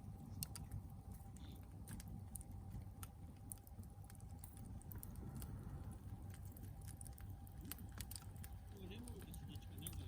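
Log campfire crackling: irregular sharp pops and snaps of burning wood over a steady low rumble.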